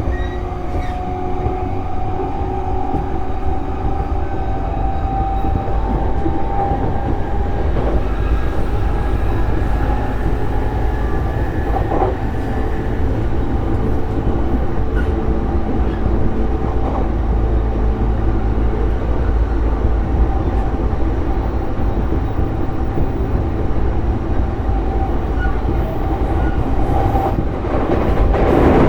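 E233-series electric multiple unit running between stations, heard inside the car: a steady rumble of wheels on rail with faint motor tones, and a louder rattle near the end.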